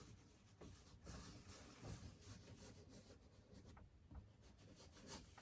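Faint, irregular scratchy strokes of paint being worked onto a stretched canvas.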